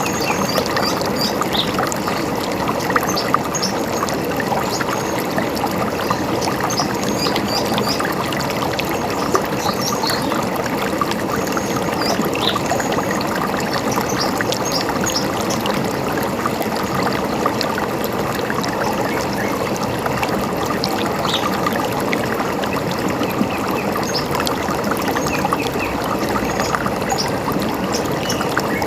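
A river running steadily, a continuous rushing and gurgling of water, with short high bird chirps scattered over it.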